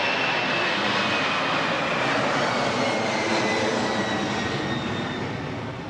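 Jet airliner engines running during takeoff: a steady loud rush with a high whine that slowly falls in pitch. The noise fades away near the end.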